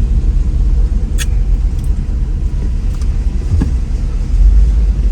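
Mercedes R129 SL500 on the move, heard from inside: a steady low rumble of engine and road, with a sharp click about a second in and the rumble swelling briefly near the end.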